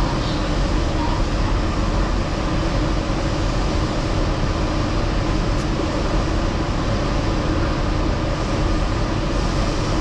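Yurikamome Line rubber-tyred automated train running steadily, an even rumble of tyres and drive heard from inside the front car.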